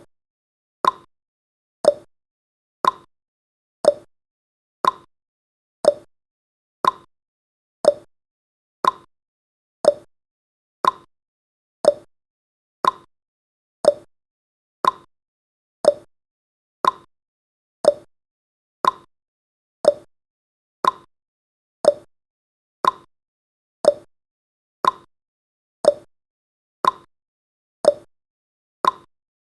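Countdown timer's clock tick sound effect, one short tick each second, alternating a higher and a lower pitch like a tick-tock.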